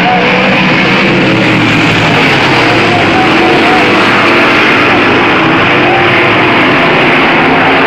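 Sprint cars' V8 engines racing around the track, a loud, steady engine noise from several cars at once.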